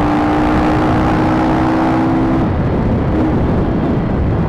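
Motorcycle engines and wind rumble on a group ride, with one engine holding a steady pitch that drops away about two and a half seconds in.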